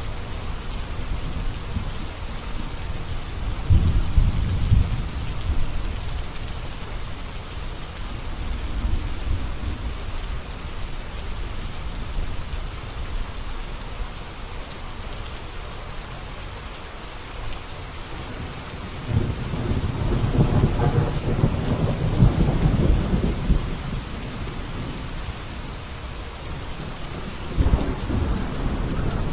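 Steady rain falling, with rolling thunder rumbling low underneath: a short swell a few seconds in, a longer and louder roll past the middle, and another starting near the end.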